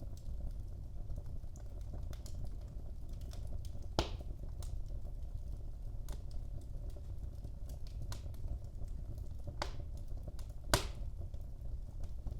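Wood fire in a fireplace crackling: scattered small clicks over a low, steady rumble of the flames, with two louder pops, about four seconds in and again about eleven seconds in.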